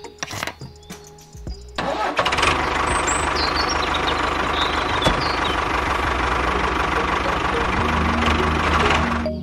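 A few small plastic clicks as a part is pressed onto a miniature model tractor. About two seconds in, a loud, steady engine-like running sound starts suddenly, with a fast low pulse, and it stops near the end.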